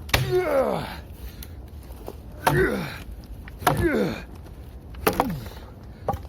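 A voice giving four short wailing cries, each sliding steeply down in pitch, with sharp clicks among them.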